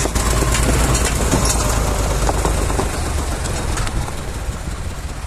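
Tractor's diesel engine running under work, a steady low rumble with scattered knocks and rattles, easing slightly about three seconds in.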